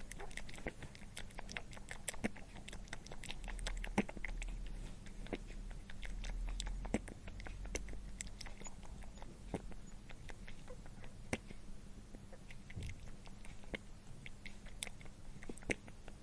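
An animal chewing and biting, giving many irregular crunching clicks.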